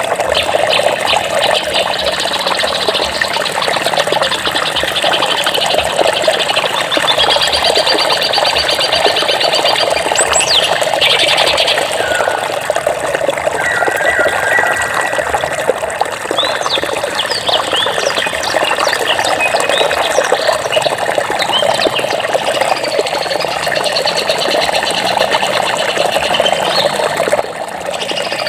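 Steady rush of flowing water with small birds chirping over it: a fast trill about eight seconds in, a short whistled note around thirteen seconds, and quick rising and falling calls later on.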